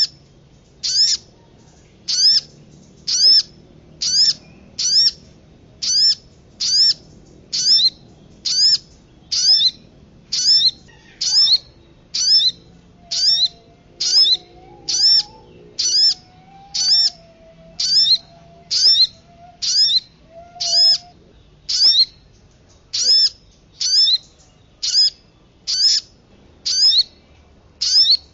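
Bird-lure recording: one short, high call with a quick upward sweep, repeated evenly a little more than once a second, used to draw in small birds. A faint, wavering lower whistle runs beneath it for several seconds in the middle.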